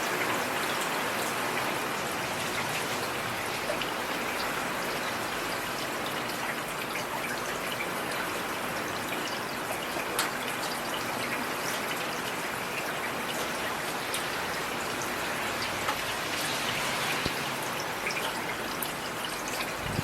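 Heavy rain falling steadily, a dense hiss with many individual drops pattering through it.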